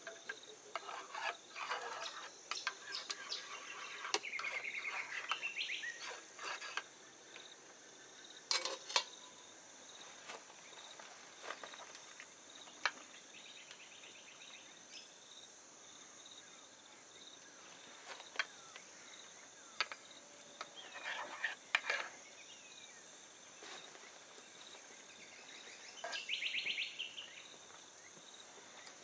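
Steady high insect chirring, with scattered clinks, taps and scraping of utensils and dishes at a camp, and a few short rapid trills.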